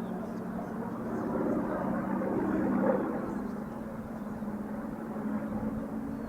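Corsair's Pratt & Whitney R-2800 radial engine running with a steady drone, its note stepping up slightly about three seconds in.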